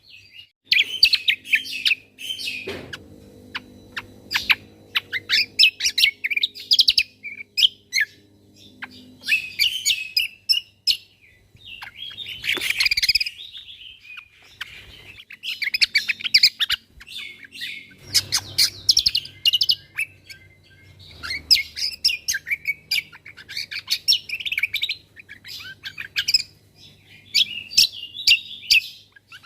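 Cucak kombo (kecial kombo) songbird singing loud, rapid 'tembakan' phrases: fast bursts of sharp high chirps and trills, each phrase a second or two long with short pauses between.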